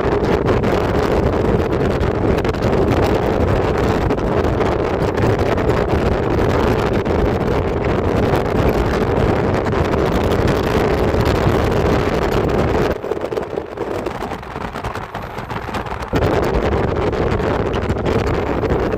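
Steady road and wind noise from a moving vehicle, with wind rushing over the microphone. It drops in level for about three seconds near the end, then returns.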